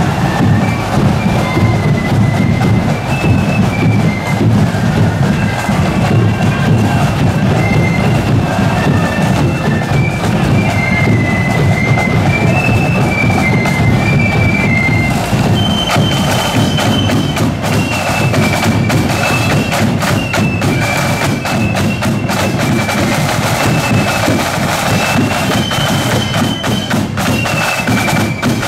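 Marching flute band playing a tune: high flutes carry the melody over snare and bass drums beating a steady march.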